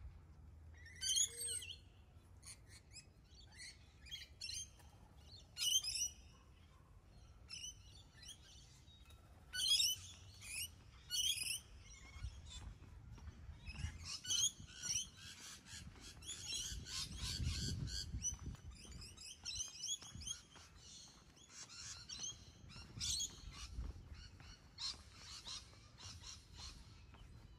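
Birds chirping and calling in short, repeated bursts, over a faint low rumble that swells about two-thirds of the way through.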